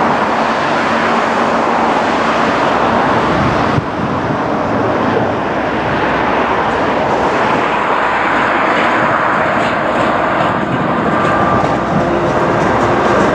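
MaK 6400-class diesel shunting locomotive working close by: a loud, steady running noise that dips briefly about four seconds in.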